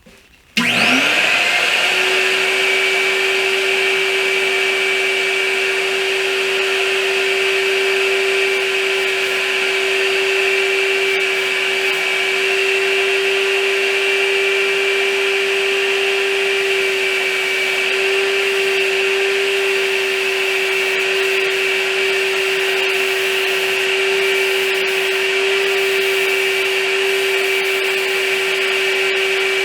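Electric paint sprayer for spraying stain, its motor switched on about half a second in with a rising whine that settles into a loud, steady hum.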